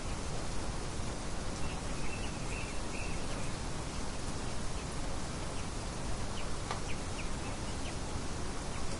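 Steady wind-like noise with a few faint, short bird chirps about two to three seconds in and a few more brief chirps or ticks near the seven-second mark.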